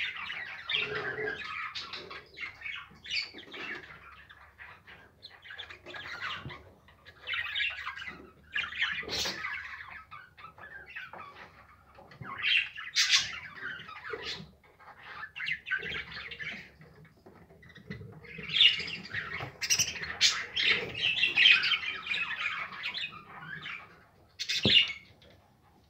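Budgerigars chattering and squawking in irregular bursts, with quieter gaps between them and a busier stretch near the end.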